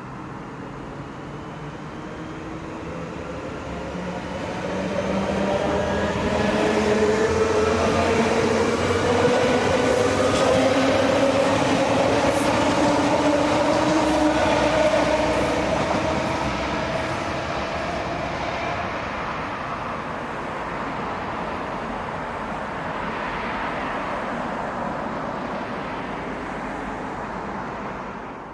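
SL X60 (Alstom Coradia Nordic) electric commuter train accelerating, its traction motors whining in a steadily rising pitch over a rumble of wheels on rail. The sound swells over the first few seconds, is loudest in the middle, then eases off.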